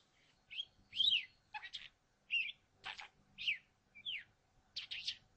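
Budgerigar chirping: a string of about nine short calls spread over five seconds, several sweeping down in pitch.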